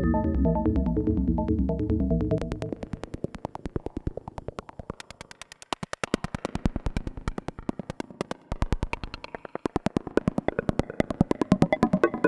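Modular synthesizer: a Braids-style macro oscillator through Mimeophon delay. It plays sustained stepping notes for about two seconds, then switches to a fast run of short, plucked, decaying notes, many per second, which grows louder and denser near the end.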